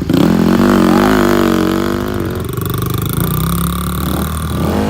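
Honda 50 dirt bike's small four-stroke single-cylinder engine running and revving, its pitch wavering up and down and settling a little lower after about two seconds.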